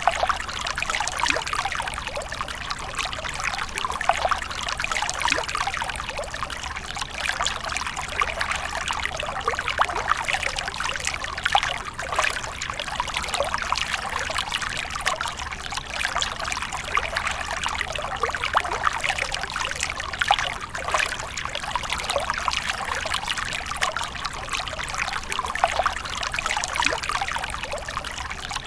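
Water splashing and trickling continuously, with many small irregular splashes.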